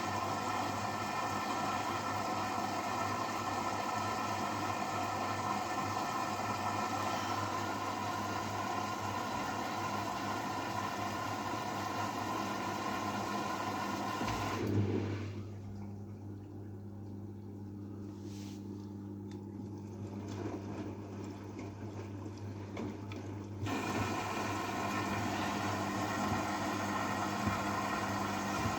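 AEG washing machine running partway through its wash cycle: a steady motor hum with water noise. About halfway through, the hissing part of the sound stops abruptly and returns suddenly about nine seconds later, while the hum carries on.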